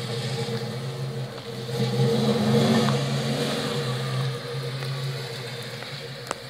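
1973 Ford Mustang Mach 1 engine revving as the car accelerates. It swells and rises in pitch about two seconds in, then fades as the car moves away.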